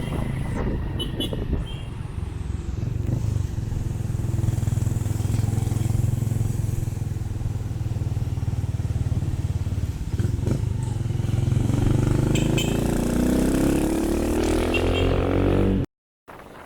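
Habal-habal motorcycle taxi's engine running under way, its pitch climbing steadily over the last few seconds as it accelerates, then cut off abruptly near the end.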